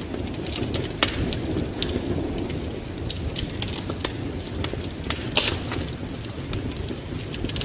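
Wood fire crackling in a fireplace: irregular sharp pops and snaps over a low steady rumble, with louder pops about a second in and again near five and a half seconds.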